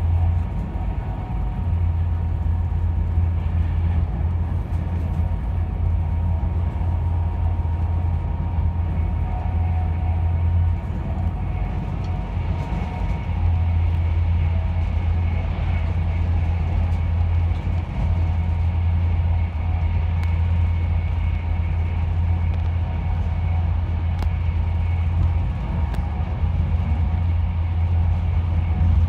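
Steady rumble of a passenger train running at speed, heard from inside the carriage, with a faint steady whine over it.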